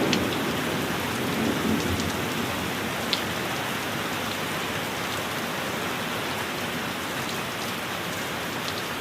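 Steady heavy rain hissing, with a few sharp individual drips. The tail of a low thunder rumble fades out over the first couple of seconds.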